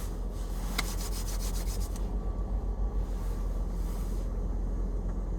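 Drive-through automatic car wash working on the car, heard from inside the closed cabin: a steady low rumble with rubbing, spraying noise, its hissing top end falling away about two seconds in.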